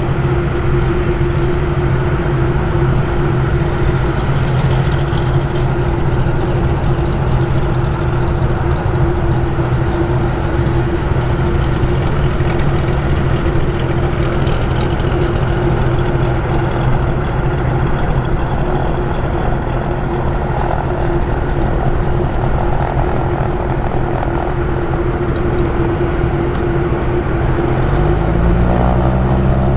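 Aircraft engines running steadily with a thin high whine over a low hum; in the last couple of seconds the low pitch starts to rise as the engines spool up.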